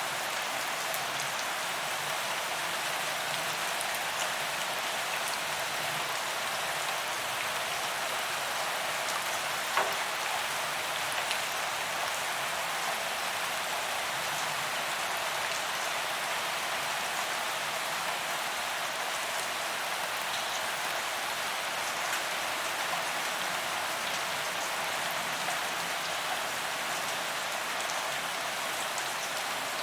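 Steady rain falling on a paved walkway, an even hiss of drops hitting the ground, with one sharp drip or tap about ten seconds in.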